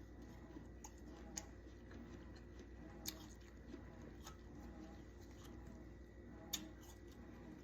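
Quiet room hum broken by a few sharp, isolated clicks, three of them standing out over several seconds.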